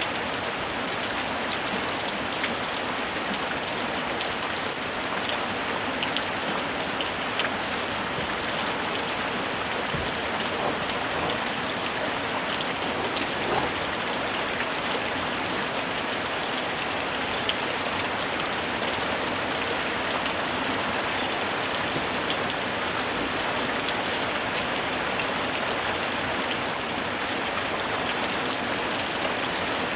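Heavy rain drumming steadily on a tin roof, a dense, even hiss peppered with the sharp ticks of individual drops striking the metal.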